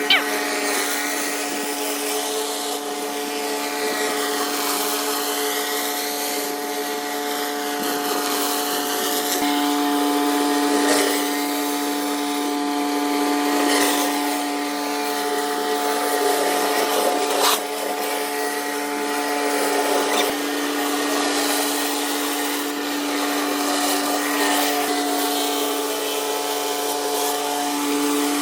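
Pressure washer running steadily, its motor and pump giving an even hum under the hiss of the high-pressure water spray.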